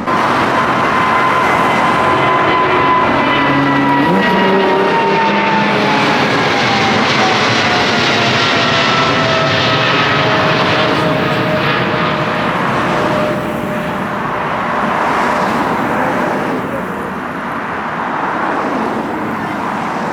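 Jet engines of a widebody airliner climbing out low overhead after takeoff: a loud roar with a whining tone that falls steadily in pitch over about ten seconds as the aircraft passes and draws away.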